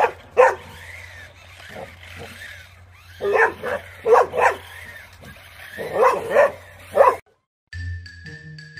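Two pets fighting, with short sharp yelps and barks in clusters of two or three. About seven seconds in they cut off, and a xylophone-like tune begins.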